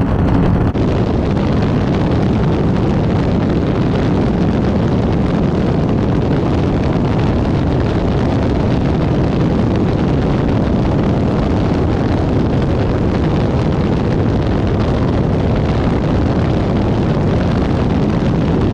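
Avanti 33 powerboat running at speed on its twin V8 engines: a loud, steady mix of engine, hull and water noise with wind on the microphone.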